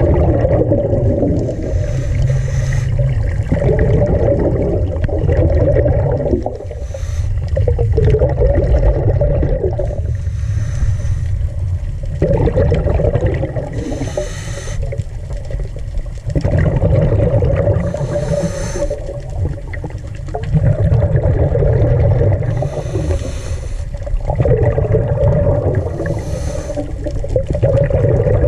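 Underwater sound of a diver breathing through a regulator: a low bubbling rumble of exhaled air, with a short hissing breath drawn in about every four to five seconds.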